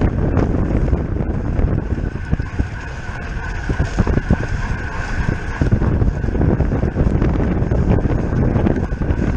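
Wind buffeting the microphone of a bike-mounted camera on a road bike at race speed, with a faint steady high tone and scattered light clicks and rattles over the rumble.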